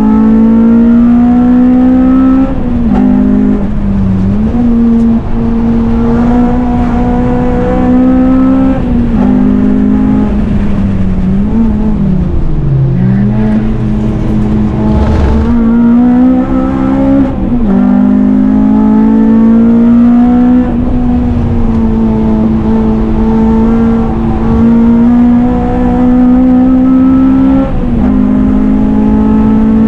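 Honda Civic Type R four-cylinder engine driven hard on track: the revs climb steadily and drop sharply at each gear change, several times over, with a drop to low revs about twelve seconds in as the car slows for a corner before pulling up through the gears again.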